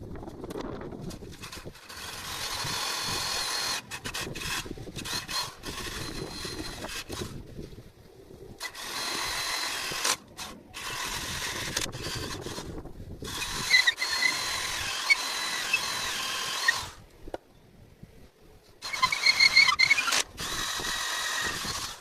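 A handheld power tool, drill-like, run in about six bursts of a few seconds each with short pauses between. Each run is a hissing whir with a high whine and squeal over it, at work on parts for a mini rocket stove.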